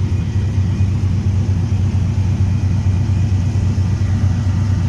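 A vehicle engine idling steadily, a low even rumble with a regular pulse.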